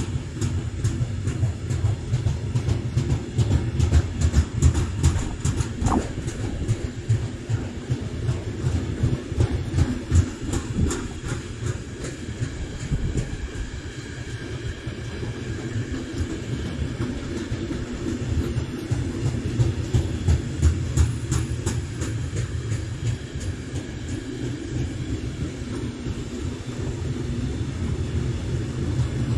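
A train rolling past, a steady rumble of wheels on rails with repeated clicks and clacks from the wheels over the track.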